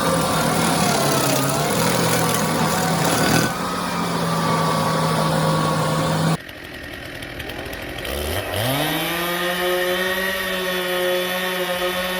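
Engine-driven cutting machinery running steadily at high speed, then stopping abruptly about six seconds in. Near the end a motor spins up, its pitch rising quickly and then holding steady.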